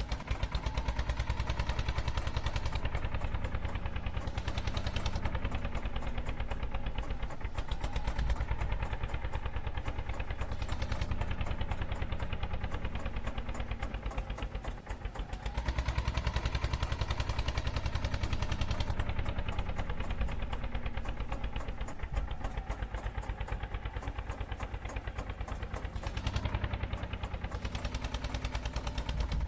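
Eicher tractor's diesel engine running with a fast, even beat; it eases off briefly about halfway through, then picks up again.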